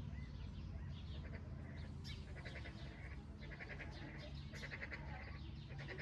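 Birds in an aviary calling: short, rapidly pulsed, bleat-like calls repeated several times, over a steady low background rumble.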